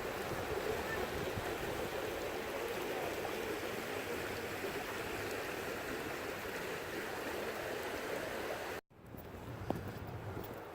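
Swollen floodwater rushing in a steady roar of moving water. Almost 9 s in, the sound cuts off abruptly and gives way to a quieter outdoor background.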